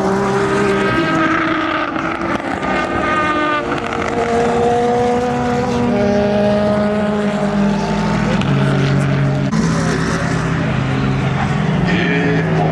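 Endurance race cars' engines running on track, several engine notes overlapping. Their pitch shifts up and down in steps as the cars change gear.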